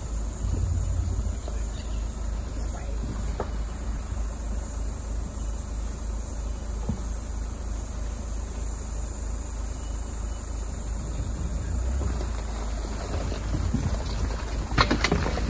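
Low, steady vehicle engine rumble heard from inside the cabin while creeping through a shallow creek crossing, over a steady high drone of insects. A few sharp knocks sound near the end.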